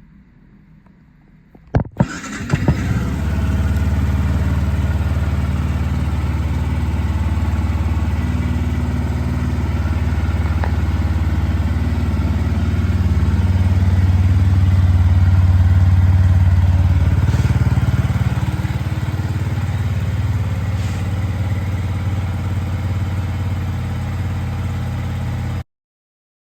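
Yamaha YZF-R125's single-cylinder four-stroke engine starting about two seconds in, then idling steadily, swelling slightly in the middle before settling. The sound cuts off abruptly near the end.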